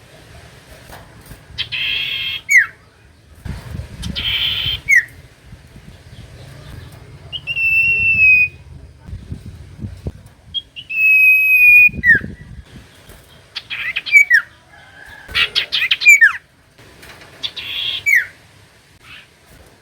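Common iora singing: long, level whistled notes that each end in a quick downward slide, alternating with short harsh chattering bursts, repeated with short pauses between phrases.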